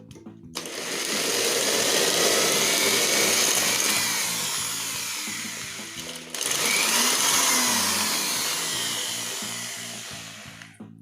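A loud rush of noise from a PT2399 noise delay effect, with faint whistling tones gliding up and down through it. It swells in about half a second in and slowly fades, cuts off about six seconds in, then comes straight back and fades again. Bass-line music continues underneath.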